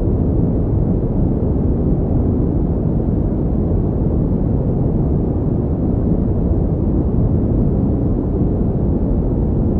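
Steady pink noise: an even, unbroken hiss, heavy in the low end and dull at the top, with no changes.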